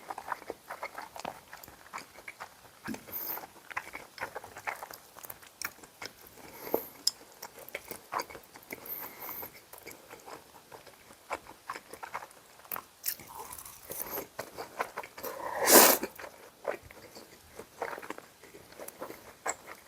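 Close-miked chewing and biting of food, with many short wet mouth clicks and crackles. One louder, sharper sound comes about three-quarters of the way through.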